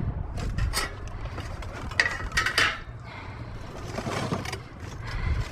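Scrap being handled and pulled about in a dumpster: a series of irregular knocks and scrapes, over a low steady rumble.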